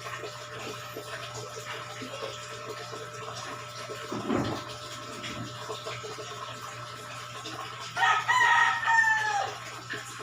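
A rooster crowing once near the end, one long call that holds its pitch and then drops, over a steady low background hum. A short dull thump comes about four seconds in.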